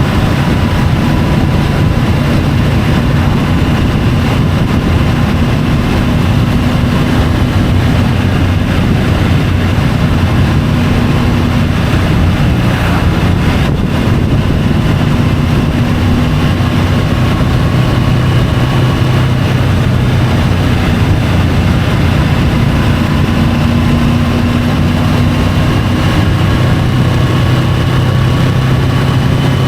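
Triumph Tiger 850 Sport's three-cylinder engine running steadily under way, its pitch rising and falling slightly with engine speed, over a steady rush of road and wind noise.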